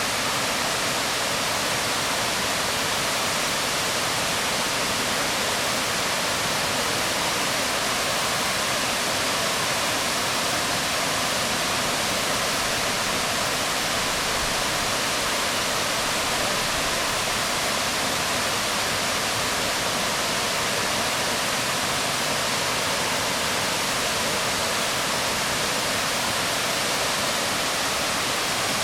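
Waterfall falling onto rocks: a steady, even rush of water that does not change in level.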